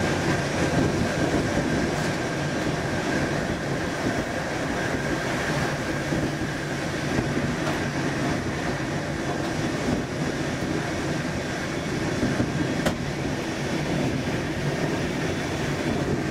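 Steady rumble and rail noise of a moving train, heard from the coach coupled to a Siemens Class 370 electric locomotive.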